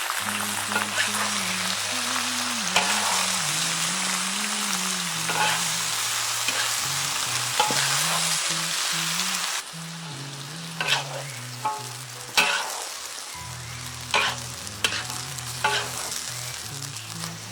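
Food sizzling in a hot wok while being stir-fried. About ten seconds in the sizzle drops away, leaving scattered sharp clinks and knocks of a utensil against the pan.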